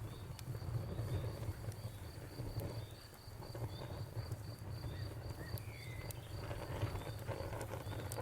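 Wood fire crackling with scattered sharp pops over a low rumble, while a cricket chirps steadily in a fast, regular pulse.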